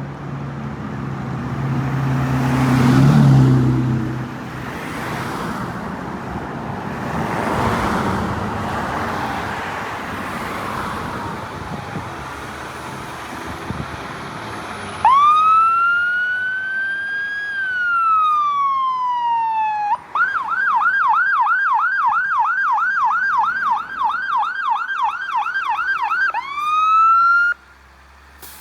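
Fire engine's electronic siren: one wail that rises quickly and falls slowly, then a fast yelp of about three cycles a second, then a short rise that cuts off suddenly. For the first half, before the siren starts, there is only vehicle engine and road noise, swelling and fading.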